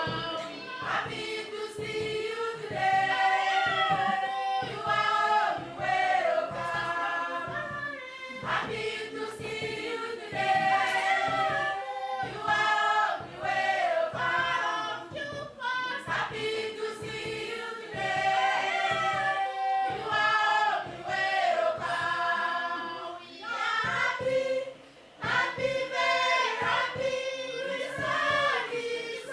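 A local group singing together, repeating the same short song phrase over and over.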